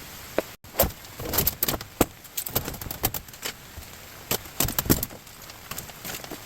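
Pieces of scrap metal being handled: an irregular run of sharp clinks, knocks and rattles, busiest in quick clusters.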